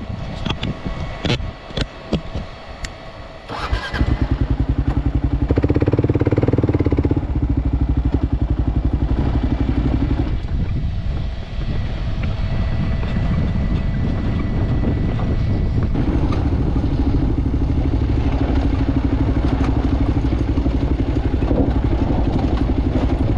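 Motorcycle engine starting about four seconds in, after a few clicks and knocks, then running steadily with a brief rev just after it catches.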